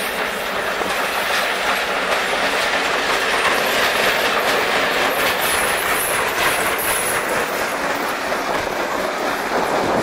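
CN GP9RM diesel locomotive and its yard slug passing close by, engine running and wheels clicking steadily over the rail joints.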